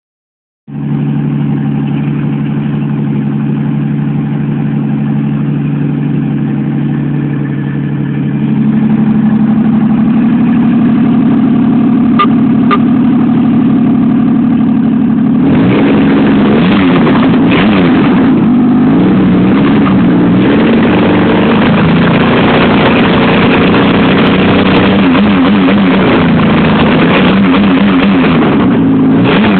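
Supercharged 3800 V6 running in the car, idling steadily at first. Its pitch steps up about a third of the way in, and from about halfway the engine speed rises and falls again and again as it is revved.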